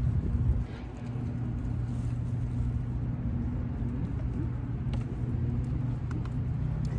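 Steady low engine hum running without change, with a few faint light clicks.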